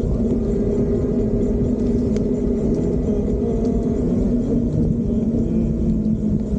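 Steady low rumble of an electric bike ride, with a faint steady hum running through it.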